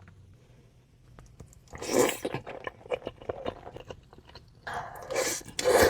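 Close-miked crunchy bites and chewing. A loud crunch about two seconds in, small crackling chews, then a second, longer crunch near the end.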